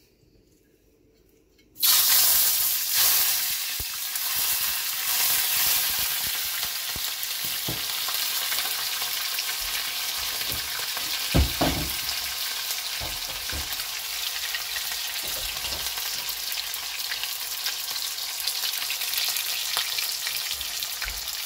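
Shallots sizzling as they fry in hot oil in a kadai for a curry tempering, a steady hiss that starts abruptly about two seconds in. There is one knock about halfway through.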